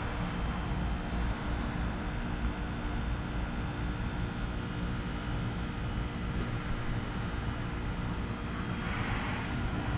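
Trane XR13 2-ton heat pump outdoor unit running with a steady machine drone and hum. A short swell of hiss comes in about nine seconds in.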